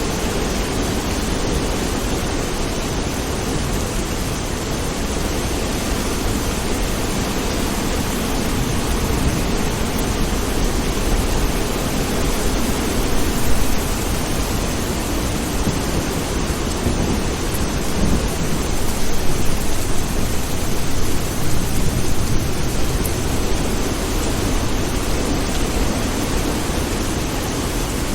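Steady rain with a low rumble of thunder underneath, the rumble swelling louder about halfway through and again for a few seconds after that.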